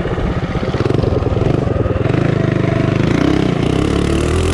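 Minibike's single-cylinder four-stroke engine running hard at speed, with a rapid, steady firing beat.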